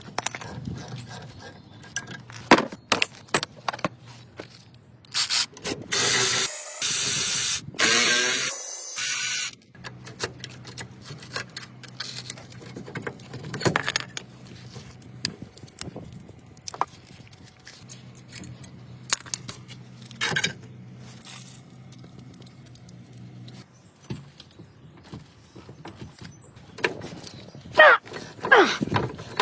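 Hand tools and metal brake parts clinking, knocking and scraping during a front brake pad and rotor replacement, with a loud steady noise lasting about four seconds early on and a few squeaks near the end.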